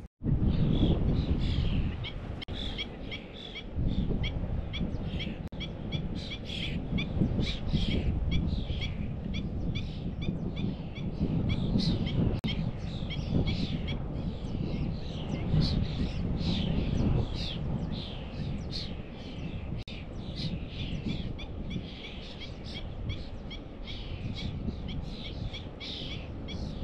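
Birds calling over and over in short, falling chirps, a couple or more a second, over a steady low rumble.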